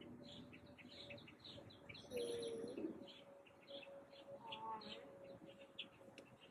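Small birds chirping over and over in the background, with a faint steady hum underneath. A short, louder squeak comes about two seconds in, and a fainter wavering one follows past the middle.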